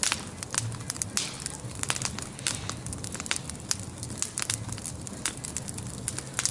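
Bonfire crackling, with many sharp irregular pops and snaps over a steady low rumble of burning.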